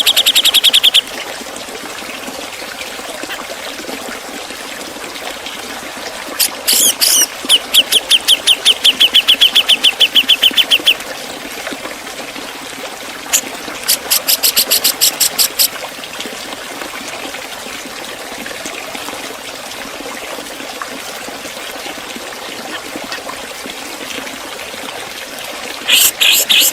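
Grey-cheeked bulbul (Javan cucak jenggot) calling in rapid trains of sharp, evenly repeated 'pik' notes, several per second. There are four bursts of one to four seconds each, separated by pauses, over a steady background hiss.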